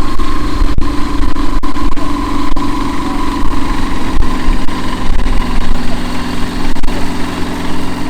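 Bushcat light aircraft's piston engine and propeller droning steadily in flight, the pitch sinking slightly over the first few seconds.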